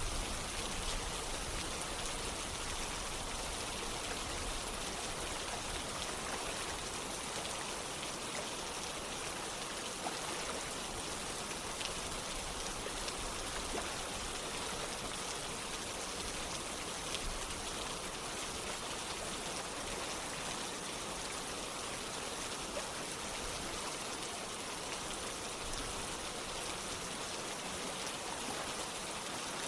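Steady rain together with running water: an even, unbroken hiss with scattered drop ticks.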